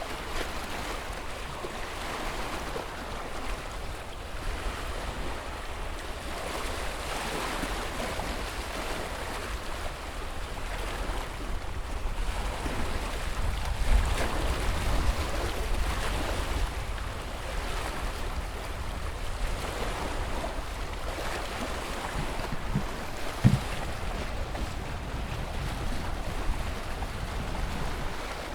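Ocean surf washing steadily, swelling louder toward the middle, over a low rumble of wind on the microphone. A single brief knock about three-quarters of the way through.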